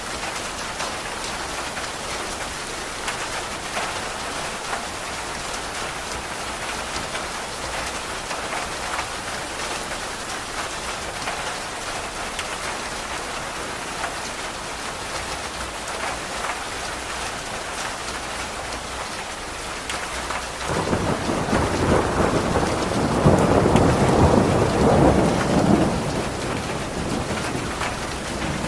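Steady rain falling with fine pattering drops. About twenty seconds in, a roll of thunder comes in suddenly, swells for several seconds as the loudest sound, and fades near the end.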